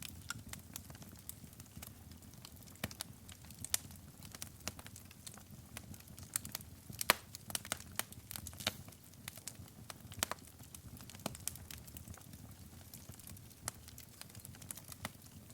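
Wood fire burning in a fireplace, crackling and popping with irregular sharp snaps over a low steady rumble of the flames.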